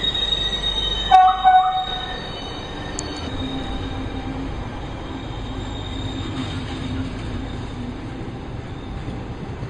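Train wheels squealing on the rails, then two short horn blasts about a second in, followed by the steady running noise of the train.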